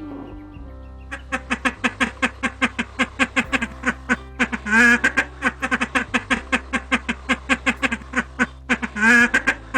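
Duck quacking in a rapid, even series of short quacks, about five a second, broken by two louder, longer calls, one near the middle and one near the end.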